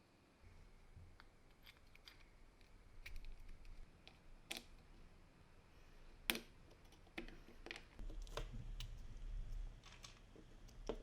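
Scattered light clicks and taps of small parts being handled during a hammer drill restoration, the sharpest about six seconds in, over a low rumble that grows louder in the second half.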